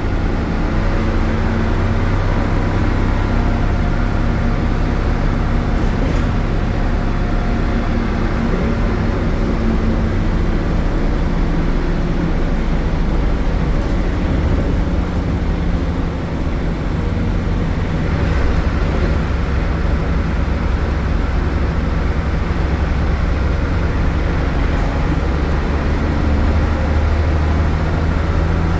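MAN Lion's City A76 city bus's Euro 4 MAN diesel engine running with its ZF gearbox while under way, a steady loud drone that eases off briefly about halfway and builds again towards the end.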